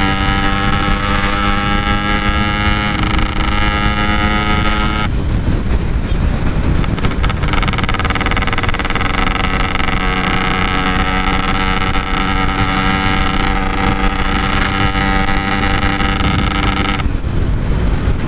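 Yamaha RX-King's two-stroke single-cylinder engine running through its exhaust while ridden at a gentle, steady throttle. Its note holds level, turns rougher for a couple of seconds about five seconds in, then settles steady again before changing near the end.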